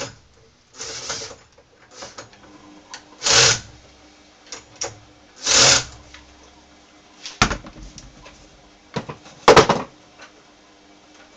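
Hand-work on the minibike's clutch: scattered clicks and knocks with short scraping sounds of tools and metal parts being handled, the loudest about three, five and a half, and nine and a half seconds in, over a faint steady hum.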